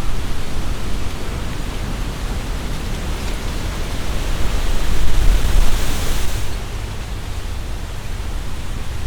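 Strong wind gusting through tree leaves, the leaves rustling over a low rumble. A gust swells about five seconds in and eases off shortly after.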